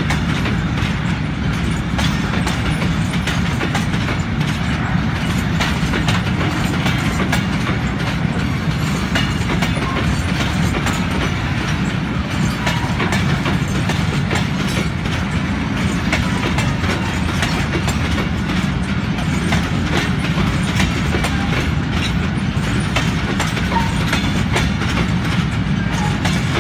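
Tank wagons of a freight train rolling past: a steady rumble with the wheels clacking over the rail joints.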